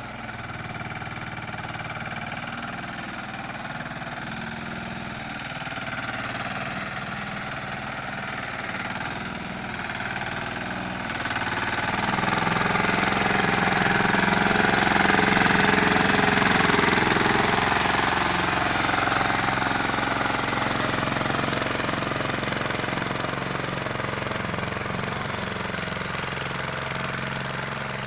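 Small tractor's engine running steadily with a knocking beat. It grows louder about twelve seconds in, then slowly fades over the second half.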